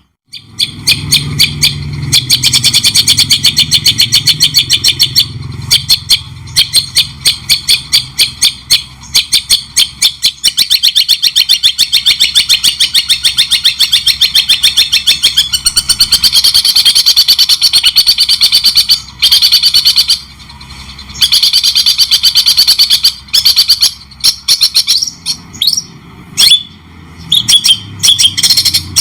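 White-rumped shama (murai batu) singing a fast chattering song of sharp repeated notes, several a second, breaking off briefly a few times.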